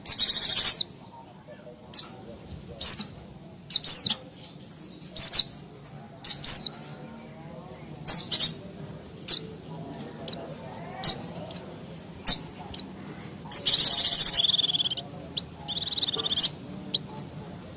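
White-eye (pleci) calling excitedly: sharp, high chirps that slide down in pitch come about once a second, then two longer buzzy chattering runs come near the end.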